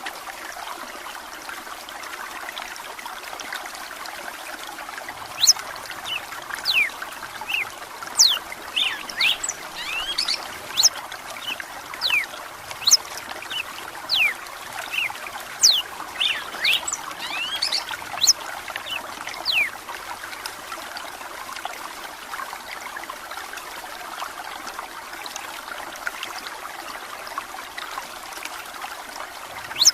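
Red-cowled cardinal (galo-de-campina) singing a string of short, quick sweeping notes over the steady trickle of running water. The notes come thickest from about five seconds in to about twenty seconds in, and then the water goes on nearly alone.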